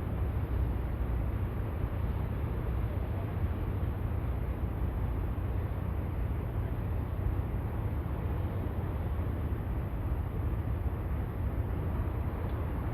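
Steady harbourside ambience: a constant low rumble under an even hiss, with no distinct events.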